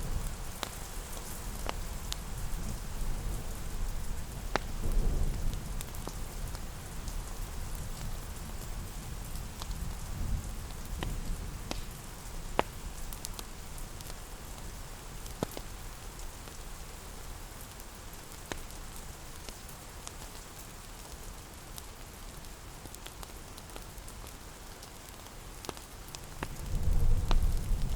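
Steady rain on a surface, with scattered sharp ticks and pops over it. A low thunder rumble comes and goes and swells loudly near the end.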